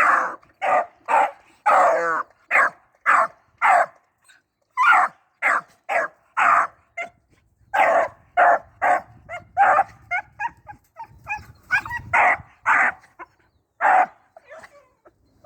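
Young rabbit-hunting dog barking in a quick, steady run of short barks, about two a second, with a short break about four seconds in.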